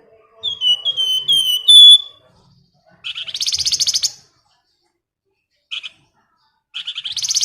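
Flamboyan songbird singing. It gives a run of about five clear whistled notes, each sliding downward and growing louder. Then come fast, buzzy rattling trills: one about three seconds in, a short burst after it, and another starting near the end.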